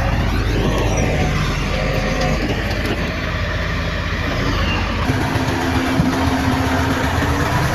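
Heavy earthmoving machinery's diesel engines running steadily, with a hum of engine tones; the mix of sound changes abruptly about five seconds in.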